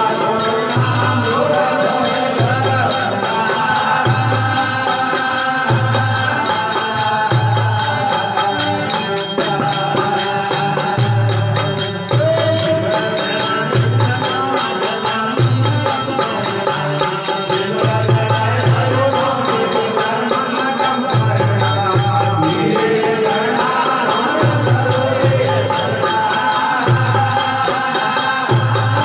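Rajasthani desi veena bhajan music: a melody over a steady low drum beat, with constant high jingling on top.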